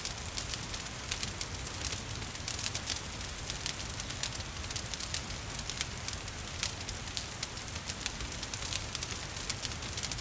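Wood fire crackling in a fireplace, with frequent sharp pops and snaps over a steady rush of gentle rain and a low rumble.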